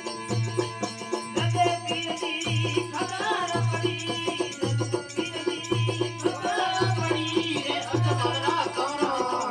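Rajasthani devotional folk music: the steady drone of a desi veena under a hand drum beating about once a second, with a wavering melody line coming in about one and a half seconds in.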